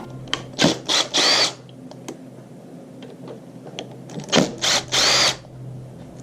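A power drill run in short trigger bursts: three quick bursts, then three more about three seconds later, the last of each set held a little longer.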